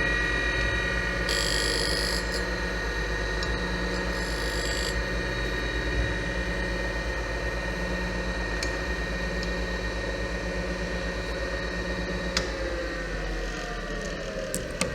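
Boyar-Schultz 612 surface grinder running with a steady hum and whine. About twelve seconds in there is a click, and the whine starts falling in pitch as the grinder winds down.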